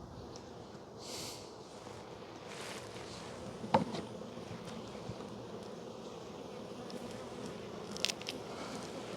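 Honey bees buzzing steadily around an open, heavily populated hive, a dense hum. A sharp knock comes about four seconds in, and a smaller click near the end.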